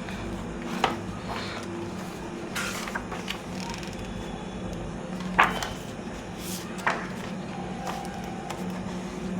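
Pages of a book being turned by hand: a few short paper flips and taps, the sharpest about halfway through, over a steady low hum.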